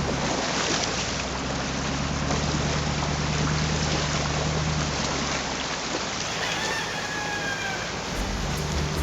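An off-road 4x4's engine running low and steady under a loud, continuous rush of water. A brief high, chirp-like tone sounds about seven seconds in.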